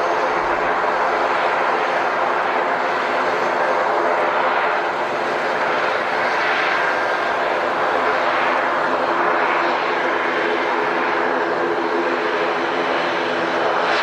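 Airliner engines running with a steady, loud drone made of several held tones, unchanging in level throughout.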